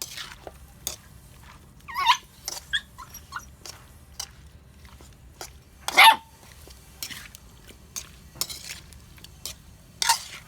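A dog barking in single barks, about two seconds in, again at six seconds and once near the end, with faint knocks and ticks between.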